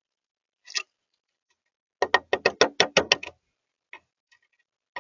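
A bird pecking at a hard surface: a single tap, then a quick run of about nine taps in just over a second, then a few more.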